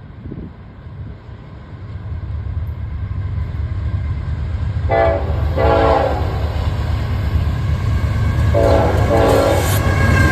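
Norfolk Southern freight train's diesel locomotives approaching, their low rumble building steadily, while the multi-chime air horn sounds four blasts in two pairs, about halfway through and again near the end.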